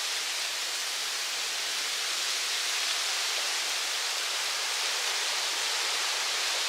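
A steady, even hiss with no clicks or changes.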